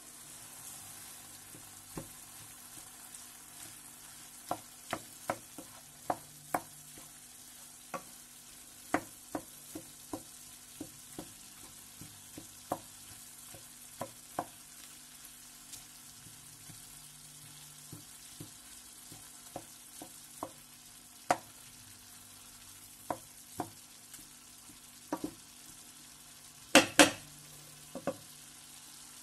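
Minced meat and onions sizzling steadily in a frying pan while a wooden spoon stirs them, knocking sharply against the pan again and again. A louder double knock comes near the end.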